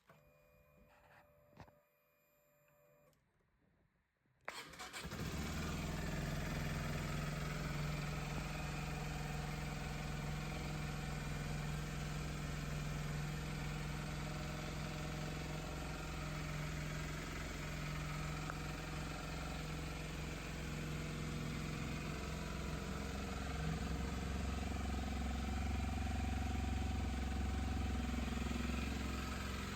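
Kawasaki Ninja 125's single-cylinder four-stroke engine started about four seconds in, then idling steadily.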